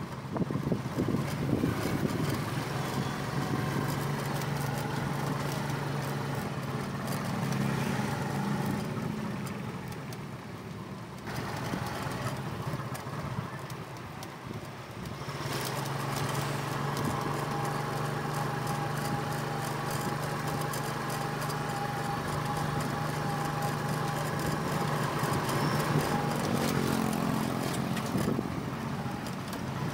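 Small motorcycle engine of a motorized pedicab (bentor) running under way, with road and wind noise around it. The engine note drops away about nine seconds in and comes back strongly about fifteen seconds in.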